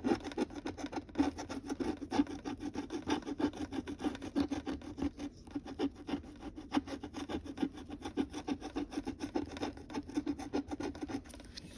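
Scratching a scratch-off lottery ticket: rapid, repeated scraping strokes across the ticket's coating, several a second, with a few brief pauses.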